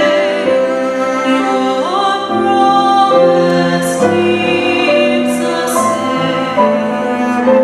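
Music: voices singing held notes, choir-like, over instrumental accompaniment.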